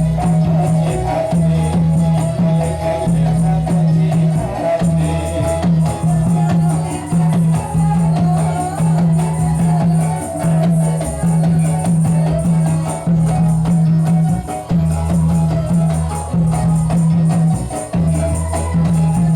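Ndolalak dance music played by a live ensemble: a steady, rhythmic low beat with jingling, shaken percussion over it.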